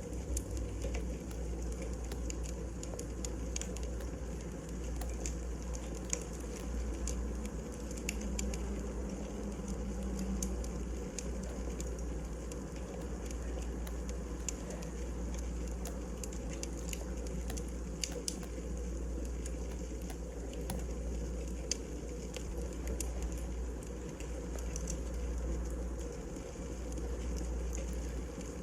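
Wood fire burning in a fireplace: irregular sharp crackles and pops of the logs over a steady low rumble.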